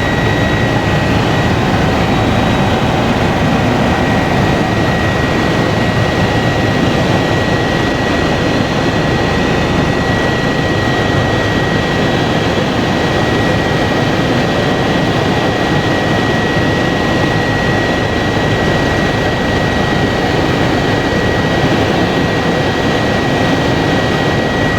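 Kawasaki BK 117 B-2 twin-turboshaft helicopter in flight: a loud, steady rush of engine and rotor noise with a steady high whine running through it.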